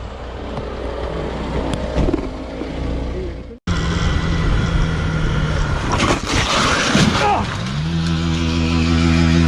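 Motorcycle engine running. The sound cuts off abruptly about three and a half seconds in and another engine takes over; near the end its pitch rises and then holds steady at higher revs.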